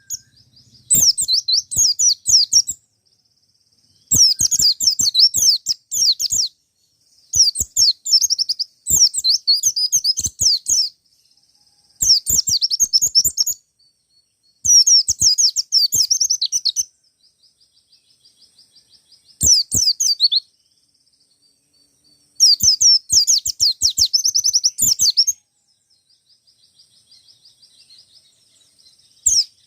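Wild white-eye (pleci ngalas) singing in repeated loud bursts of fast, high-pitched twittering, each a second or two long, with a softer rapid trill between some phrases. It is the bird's insistent calling song, aimed at other white-eyes.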